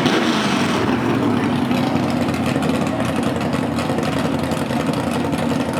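Car engine idling steadily, with a brief louder rush of noise over the first second.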